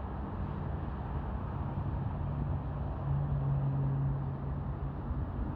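A vehicle engine running steadily: a low rumble with a steady hum that grows louder about three seconds in and fades near the end.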